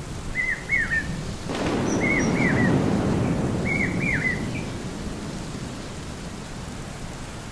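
A long roll of thunder swells about a second and a half in and slowly dies away. Over it, a bird gives a short, quick down-slurred double note three times.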